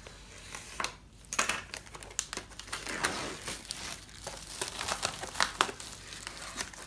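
Fireworks packaging being crinkled and torn open by hand, an irregular run of crackles and rustles.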